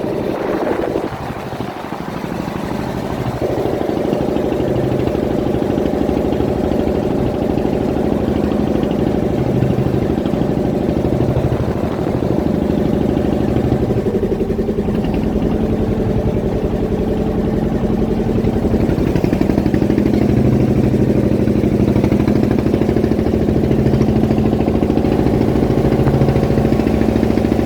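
Fishing boat's engine running steadily, with an even hum that dips briefly about a second in and then holds.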